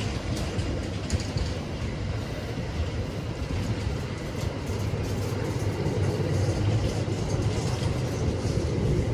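Train running by on the track: a steady rumble of wheels on rail with faint light clicks, growing a little louder in the second half.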